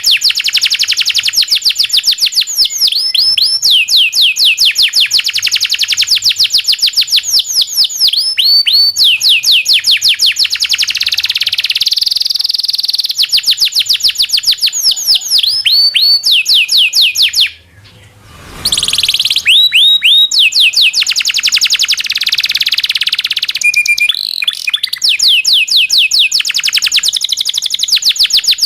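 Local canary singing a long rolling song: rapid trills of high sweeping notes in long runs, broken once by a short pause a little past halfway.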